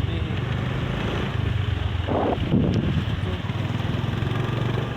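Motorcycle engine running steadily during a ride, with a steady rush of noise over it. A brief short sound stands out a little after two seconds in.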